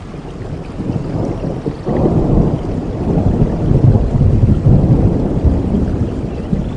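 Thunder rumbling over steady rain, swelling into a deep, rolling rumble about two seconds in.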